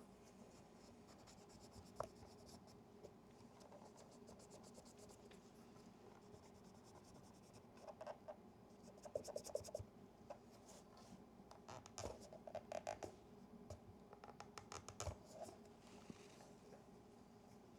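Faint handling of a film camera on the bench: light scratching and rubbing, short runs of fine rapid ticking, and a few sharp small clicks.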